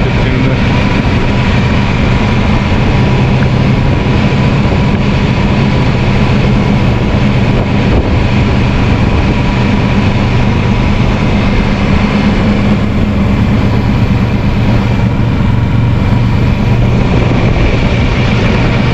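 Kawasaki Versys 650 parallel-twin engine running steadily while riding, with a dense rush of wind noise over it.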